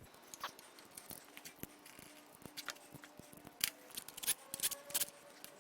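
Scattered light metallic clicks and clinks of hand tools and small bolts and parts being handled, some with a short ring, growing busier from about three and a half seconds in.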